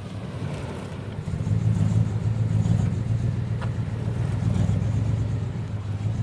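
Off-road vehicle's engine running under load as it drives over rough ground, a steady low rumble that grows louder about a second in.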